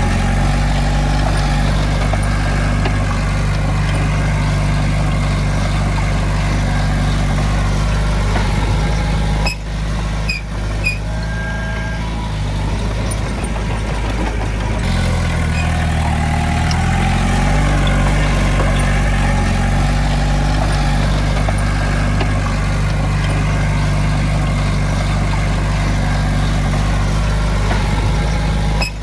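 Heavy diesel engine of earthmoving equipment running steadily. Its note drops and climbs back about halfway through, and a few short high chirps come about ten seconds in.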